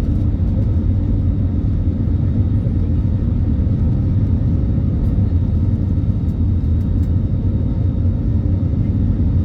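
Steady low rumble of an Airbus A320neo's engines and airflow, heard inside the passenger cabin during takeoff.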